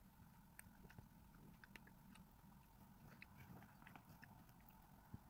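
Faint close-up chewing of a strawberry: soft, irregular little mouth clicks over quiet room tone.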